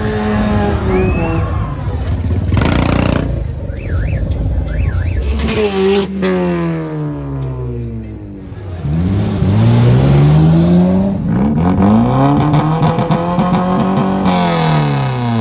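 Car engine revved hard several times, its pitch climbing and falling in long sweeps, with two short bursts of noise in the first half.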